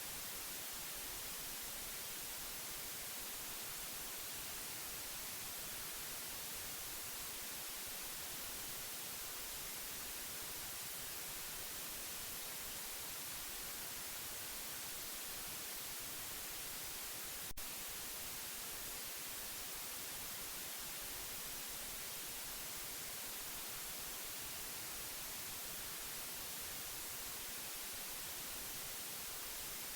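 Steady white noise: an even, unchanging hiss that is brightest in the high range. A single sharp click comes a little past halfway.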